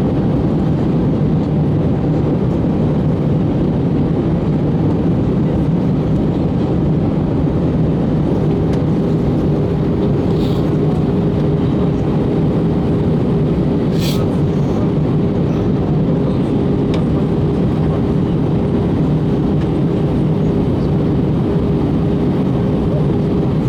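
Steady airliner cabin noise inside an Airbus A321 in flight: a constant low rush of engines and airflow. A steady hum joins about eight seconds in, and there is a brief click near the middle.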